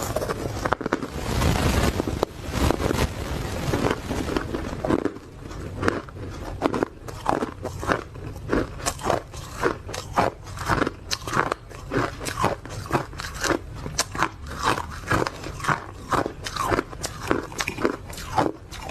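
Ice being bitten and chewed right at the microphone: a dense burst of crunching at first, then from about six seconds in a steady chewing rhythm of crisp crunches about two a second.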